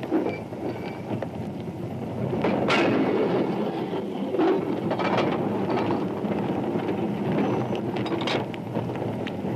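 Freight wagons being shunted: a steady rolling rumble with a few sharp knocks, spread through it about a quarter, half and most of the way in.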